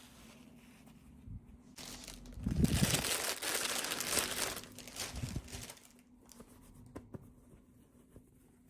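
Toy packaging crinkling and rustling as it is handled and opened. It builds about two seconds in, is loudest for a couple of seconds, then dies down, leaving a few small clicks near the end.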